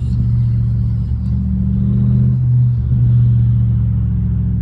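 BMW 550i twin-turbo V8 with catless downpipes and straight pipes, heard from inside the cabin while driving: a steady, loud, low exhaust drone, with a brief break in its tone partway through.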